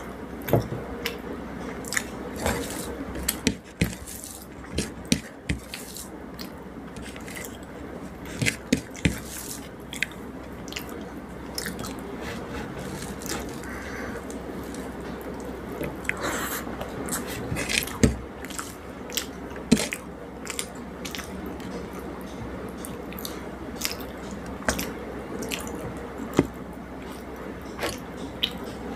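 Close-up chewing and biting sounds of someone eating rice with fish curry and fried vegetables, with many short sharp wet mouth clicks scattered through, over a steady low hum.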